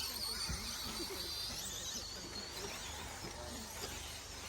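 Electric 1/10-scale short course RC trucks racing, their motors whining high and rising and falling in pitch as they speed up and slow down around the track.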